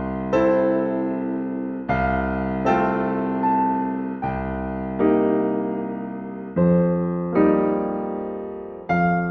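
Slow, gentle solo piano music: soft chords struck about every second and a half, each left to fade before the next.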